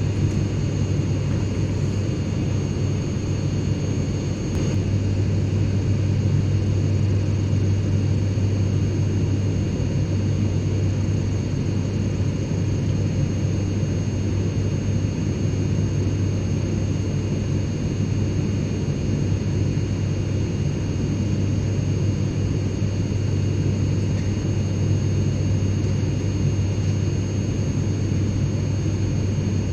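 Airplane cabin interior noise: a steady low drone with a few faint, steady high-pitched tones above it. It gets slightly louder about five seconds in.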